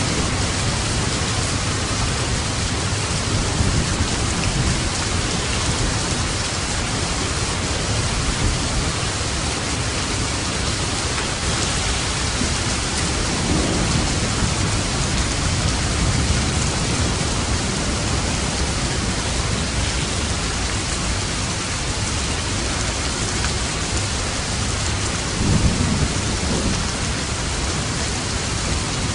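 Steady heavy rain with rolling low thunder rumbling underneath; a rumble swells briefly louder about 26 seconds in.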